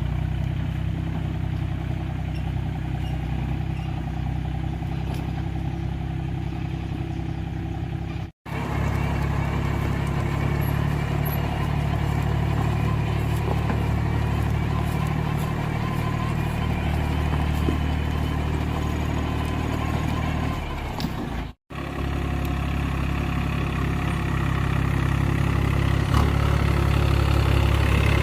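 An engine idling steadily, with a constant low hum, broken twice by a brief dropout to silence.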